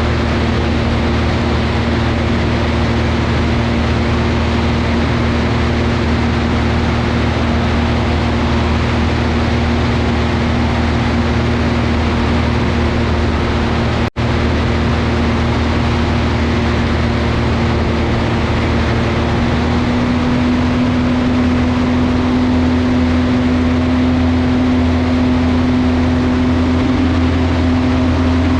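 Velocity V-Twin's two piston engines running steadily with a loud, even drone. There is a split-second break about halfway through, and the pitch rises slightly about two-thirds of the way in.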